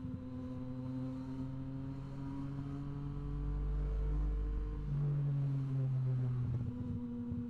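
Yamaha MT-09 SP's inline-three engine, heard through an aftermarket Blackwidow exhaust, running at a steady engine speed. Its pitch dips slightly a couple of times.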